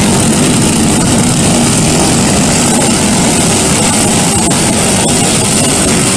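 Racing go-kart engine running at speed. The sound is loud and steady and starts suddenly.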